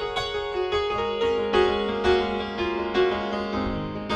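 Piano playing a slow instrumental passage of sustained chords, a new chord or note struck about every half second, with no singing.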